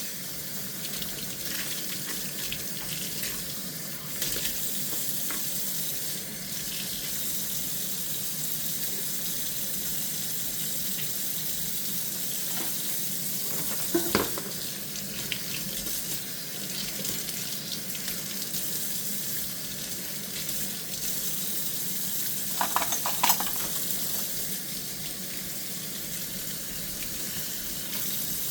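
Kitchen tap running steadily into a sink while dishes are washed by hand, with a few clinks and knocks of dishware, the loudest about halfway through and another cluster near the end.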